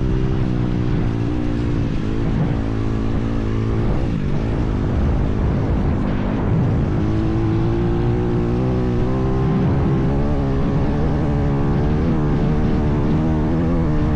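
IMR 160cc pit bike's single-cylinder four-stroke engine running, its engine speed dipping and rising several times, with a clear climb in revs about halfway through.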